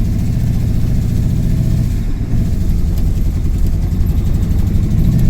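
Ford F-150 pickup engine running under load with a steady low drone that falters briefly about two seconds in. The throttle doesn't want to give under load, a sign of the truck's fuel-starvation problem.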